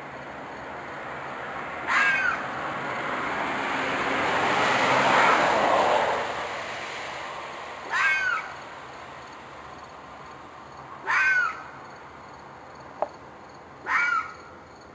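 An animal screaming outdoors at night: four short, shrill calls a few seconds apart, each with a quick up-and-down hook in pitch, taken by the listener for an animal in distress. Between the first two calls a broad rushing sound swells up and fades away, and a single sharp click comes near the end.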